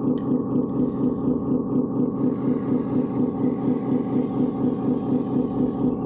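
Scale RC construction machine running with a steady, evenly pulsing engine-like drone of about four to five beats a second; a faint hiss joins about two seconds in and stops near the end.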